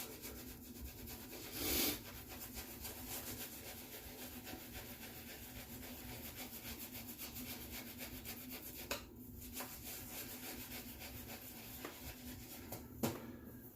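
Fast, steady scratchy rubbing of wet shaving against the face and stubble, with a louder swish about two seconds in.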